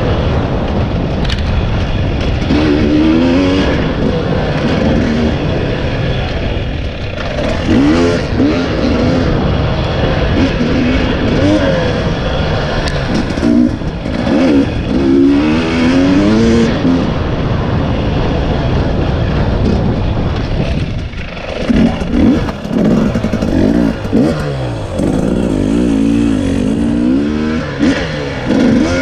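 Two-stroke single-cylinder engine of a 2020 KTM 300 EXC enduro motorcycle revving up and down over and over as the throttle is opened and rolled off, its pitch rising and falling every second or two.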